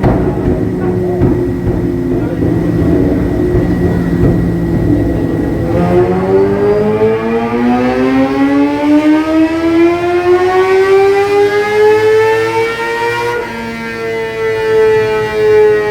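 Sport-bike engine on a chassis dyno: uneven, rough running at first, then about six seconds in a dyno pull with the pitch rising steadily for about seven seconds, dropping briefly, and then falling away slowly as it comes off the throttle.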